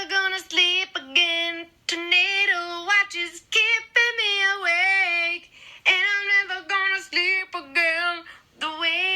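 A woman singing unaccompanied in a high voice, in short phrases with brief pauses between them.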